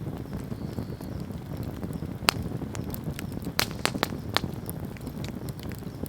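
Wood fire burning, with a steady low rumble and sharp crackling pops of the burning wood, loudest a little past two seconds in and in a quick cluster around the middle.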